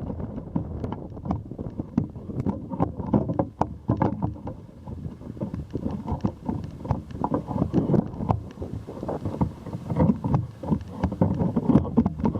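Strong wind buffeting the microphone of a camera held up on a pole: a loud, low rumble that surges and drops in gusts, with frequent short pops.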